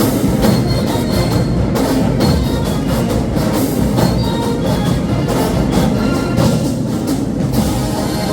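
Marching band playing: brass over a steady, driving drumline beat.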